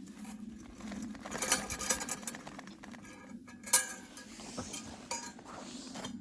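Small objects being handled, with rustling and scraping and light metallic clinks. The two sharpest clinks come about a second and a half in and just under four seconds in, over a steady low background hum.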